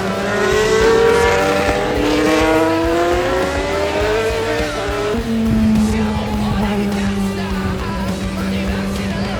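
Racing car engine accelerating on a circuit, its pitch climbing steadily for about five seconds before it changes suddenly to a lower, steadier note.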